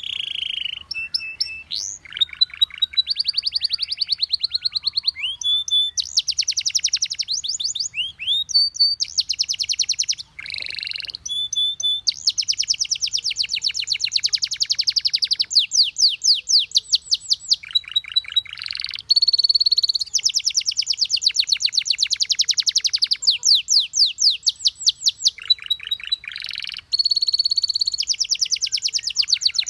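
Domestic canary song: long, continuous runs of fast trills and rolls made of rapidly repeated high notes, switching to a new phrase every second or two with only brief pauses.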